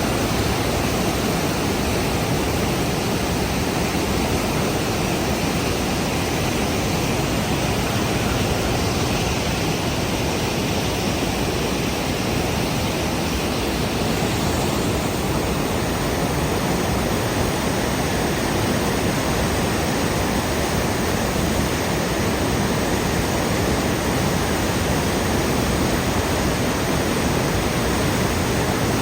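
Steady, loud rushing of a swollen river in flood, fast-flowing high water.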